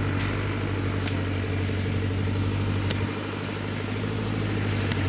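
Engine of a heavy farm machine in a muddy rice field running steadily at constant speed, a low, even drone, with a few brief sharp clicks.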